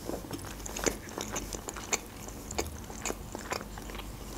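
Close-up chewing of a mouthful of crab-stick roll: irregular wet mouth clicks and smacks, a few a second.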